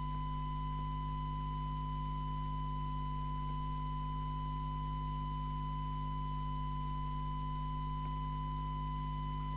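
Steady 1 kHz test tone from the FM CB receiver under alignment, demodulated from the test set's signal, with a low hum beneath. It has a slightly harsh edge, which the technician puts down to the detector being out of alignment.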